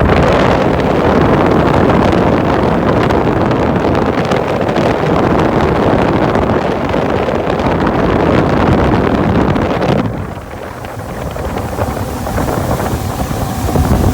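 Wind buffeting the microphone and water rushing past the hull of a bass boat running at speed. The noise eases sharply about ten seconds in, then builds again near the end.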